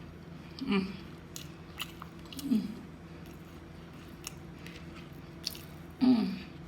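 Close-up chewing and mouth sounds: soft wet clicks while food is chewed, with three short hummed vocal sounds, the loudest near the end.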